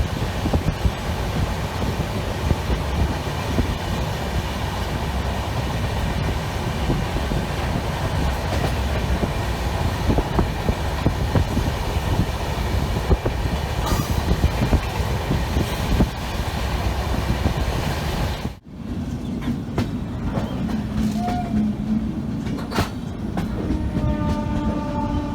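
Indian Railways train running, a steady noisy rumble of wheels on track. About three quarters of the way through it cuts abruptly to another stretch of train sound with a steady hum, and a brief set of held tones near the end.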